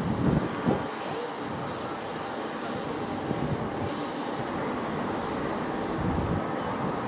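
Steady low rumble of a distant vehicle or train heard outdoors, with a few low thumps near the start and again near the end, and several short high chirps about a second in.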